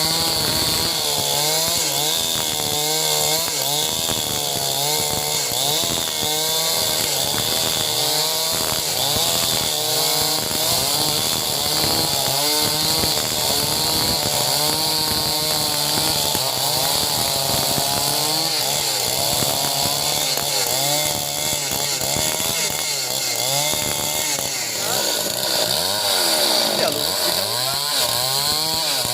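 Two-stroke chainsaw running at high revs while cutting lengthwise through timber. Its pitch keeps dipping and rising as the chain loads up in the wood and frees again.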